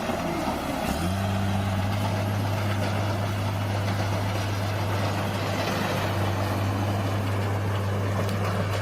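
Bulldozer's diesel engine running steadily under load; its note wavers in the first second, then holds even.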